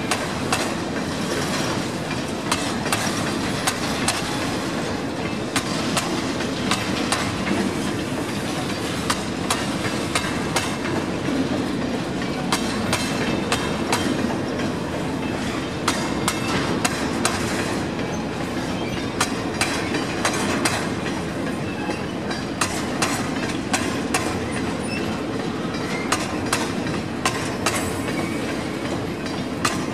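A train of empty grain hopper wagons rolling past, its wheels clacking over the rail joints in a steady run of sharp clicks over a continuous rumble.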